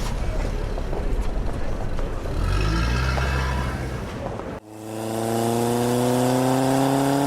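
Car engine sound effect: a low rumbling engine that revs up about two and a half seconds in, then, after a sudden cut, a smoother engine note that climbs slowly in pitch as the car accelerates.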